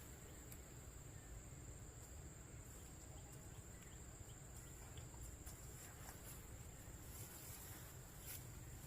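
Faint, steady high-pitched insect chirring over low background rumble, with a few small clicks scattered through.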